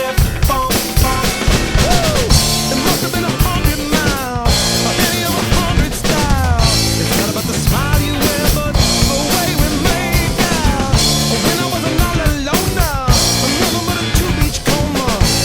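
A drum kit played along with backing music: a steady beat of bass drum and snare, with sliding tones in the music above it.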